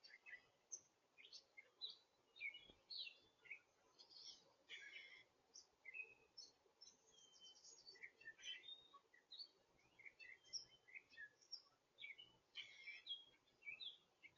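Faint chorus of small songbirds chirping and twittering, many short high calls overlapping throughout.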